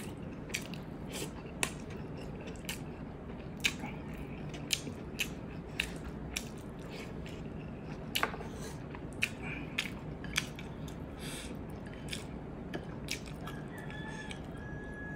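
Close-miked eating: chewing and biting with irregular sharp, crunchy clicks and mouth smacks, over a steady low room hum.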